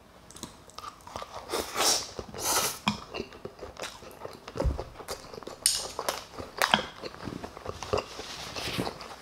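Close-miked eating: chewing a mouthful topped with Spam and egg, with wet mouth sounds and scattered sharp clicks and knocks throughout.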